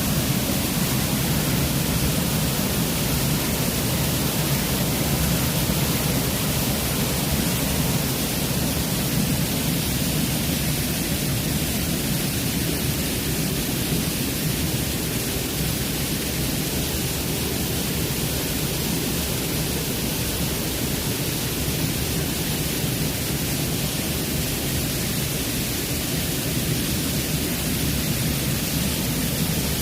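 Waterfall: cascading water rushing in a steady, unbroken roar.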